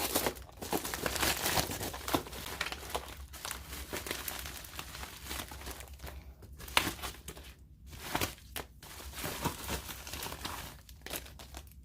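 Parcel packaging crinkling and rustling as it is handled and opened, in irregular bursts with scattered crackles and a few sharper rustles.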